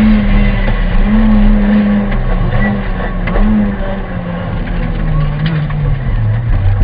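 Honda Civic VTi rally car's four-cylinder VTEC engine under hard driving, heard from inside the cabin over road and wind noise. Its note wavers up and down, then falls steadily from about four seconds in as the car slows.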